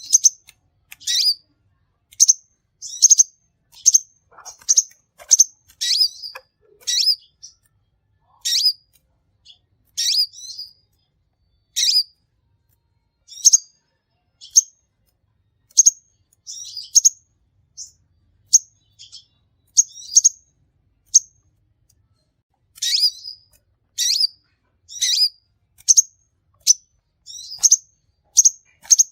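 A sunbird (the Indonesian 'kolibri') singing in a string of short, sharp, high chirps, one or two a second. The calls thin out around the middle, then come thick and fast again.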